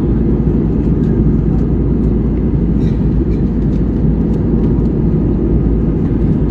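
Steady cabin noise inside an airliner on its landing approach: a constant low drone of engines and rushing air, with a few faint ticks.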